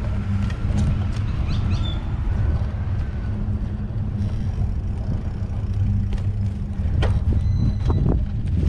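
Car engine running with a steady low hum, with a few short knocks or clicks near the end.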